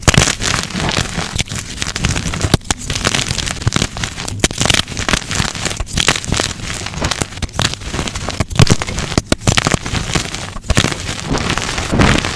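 Blocks of dyed gym chalk crushed in the hands, a dense run of crunching and crackling broken by sharp snaps.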